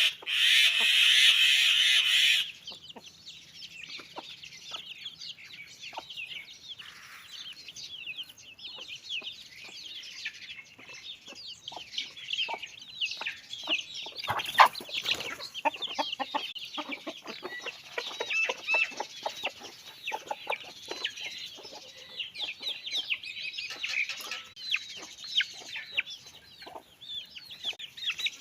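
Chickens clucking and calling, with a loud drawn-out call in the first two seconds, then a busy stream of short, high calls throughout.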